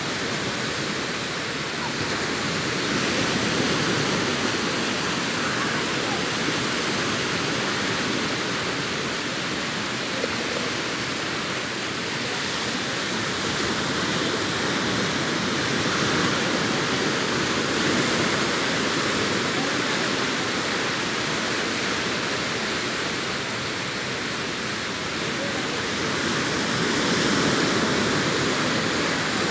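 Sea surf breaking and washing onto the beach, a continuous rushing that swells and eases every ten seconds or so as sets of waves come in.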